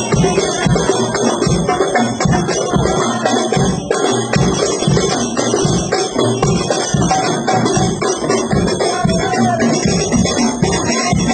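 Hadroh ensemble of rebana frame drums playing a steady, busy rhythm of low and high drum strokes, with jingling cymbals over the top. This is a new set of hadroh instruments being tried out.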